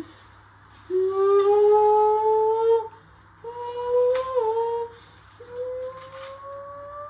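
Electric motor whine from the tumble dryer motor rigged to the washing machine, coming in three bursts. Each burst rises in pitch as the motor speeds up.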